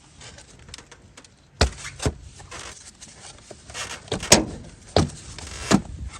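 Hands working in a car's engine bay: a string of sharp plastic-and-metal clicks and knocks, about six, with rustling in between. The engine is not running.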